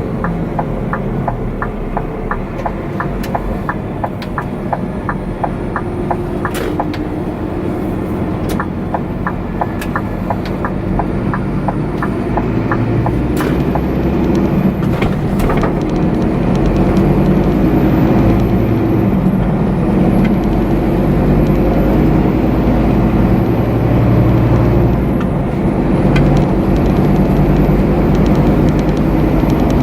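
Scania lorry's diesel engine running while driving, with a quick regular ticking, about three ticks a second, through the first part. About halfway through the engine grows louder and stays up as the truck gathers speed.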